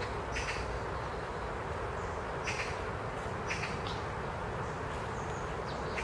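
A few short bird chirps, a second or two apart, over a steady hiss of wind in the forest trees with a low rumble of breeze on the microphone.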